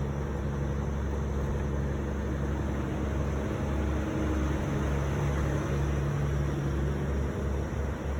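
Semi truck's diesel engine running steadily, a constant low hum with road noise.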